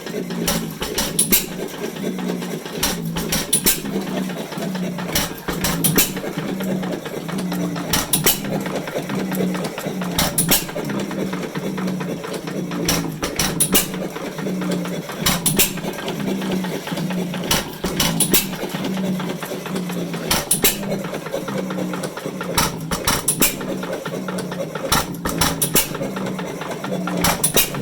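Domestic 2 hp hit-and-miss engine driving a water pump, a cluster of sharp knocks coming about every two and a half seconds as it fires and then coasts. A steady low hum runs beneath.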